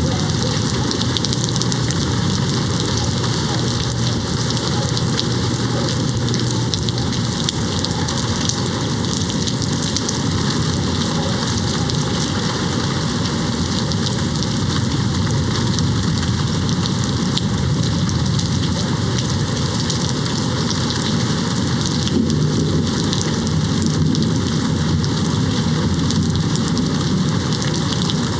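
Steady rain hitting a window, a dense even hiss, with a low rumble underneath that swells in the first few seconds and again past the middle.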